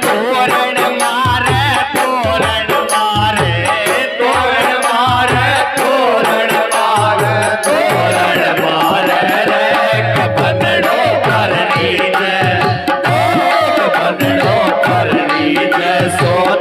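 Rajasthani Phagun folk song played on dholak and electronic organ, the dholak keeping a brisk steady beat under the organ's melody.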